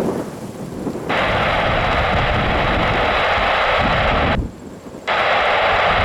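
Air traffic control radio hissing with open-channel static from about a second in, cutting out for under a second near the end, over a low rumble.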